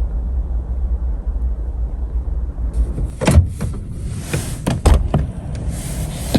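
Strong blizzard wind as a steady low rumble. About three seconds in a louder hiss joins it, with several sharp knocks.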